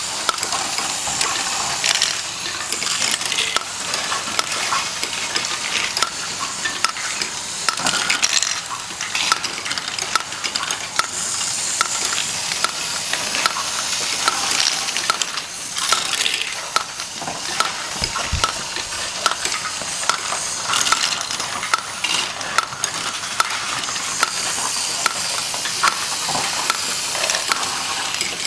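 LEGO plastic bricks rattling and clicking as they are handled, a continuous clatter of many small sharp plastic clicks.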